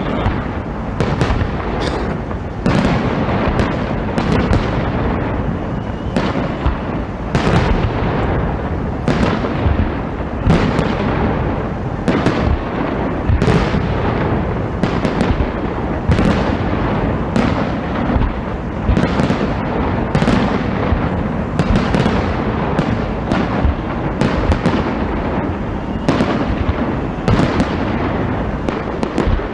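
Fireworks going off in a dense, continuous barrage: many bangs overlapping one another, several a second, with no pause.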